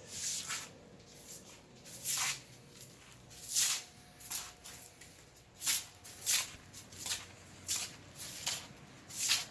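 Soft, irregular shuffling and rustling scuffs, about one every half second to a second, over a faint steady hum.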